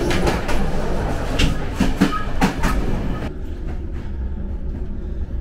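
Moving passenger train heard from inside: a loud rattle and clatter with sharp knocks, dropping to a quieter, steady low rumble about three seconds in.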